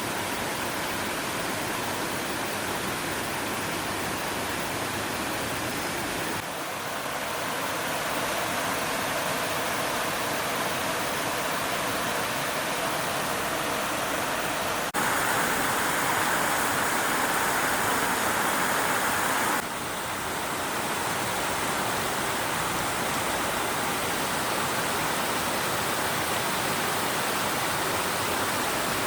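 Flowing stream water, a steady rush. It changes abruptly in level and tone a few times, and is loudest and brightest for about five seconds near the middle.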